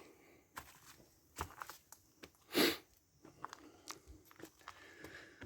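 Scattered crunching clicks of a hiker's footsteps on rocky ground, with one short, loud rush of air about two and a half seconds in.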